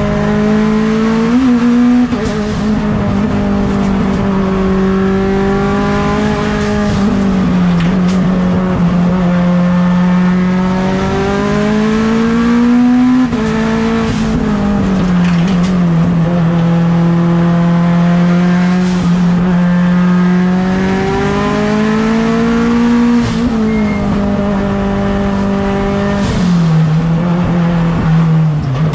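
Mitsubishi Lancer Evolution X race car's turbocharged 4B11 four-cylinder engine running hard, heard onboard. Its pitch climbs and drops several times as the car accelerates and slows between corners.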